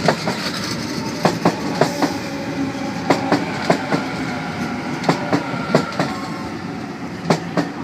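Sydney Trains Waratah electric train rolling into the platform. Its wheels clack over the rail joints in repeated pairs, over a steady hum and whine from the train.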